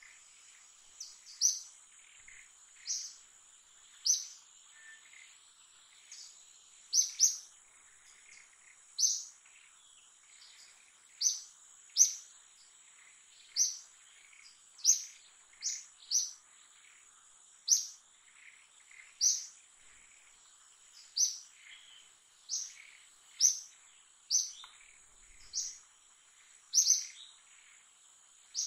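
A bird repeating a short, sharp high chirp every second or two, sometimes twice in quick succession, over a steady high-pitched insect drone.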